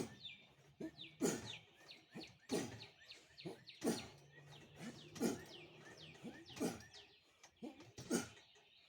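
Short, hard breaths in a steady rhythm, about one every 1.3 seconds, as a man pulls through a set of pull-ups. Small birds chirp in the background.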